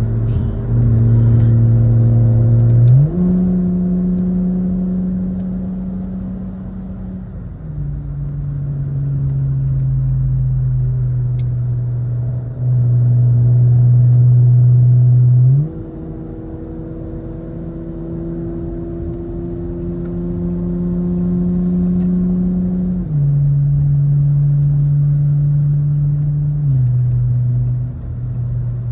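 Car engine and exhaust drone heard from inside the cabin while driving. The pitch holds steady for stretches and then steps sharply up about 3 and 15 seconds in, and back down around 7, 23 and 27 seconds in, as the engine speed changes with throttle and gear.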